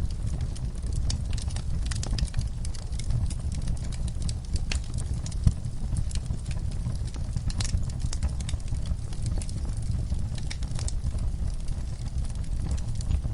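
Fireplace fire burning, with scattered crackles and pops over a steady low rumble of the flames; one sharper pop about five and a half seconds in.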